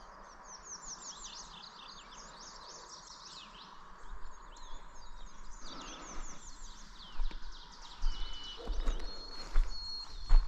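Several songbirds singing at once, with overlapping high, quick series of chirped notes. From about eight seconds in, low thumps and rustles join them.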